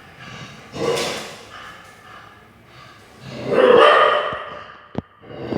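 Dog barking at a monitor lizard: a short bark about a second in, then a longer, louder bout of barking past the middle.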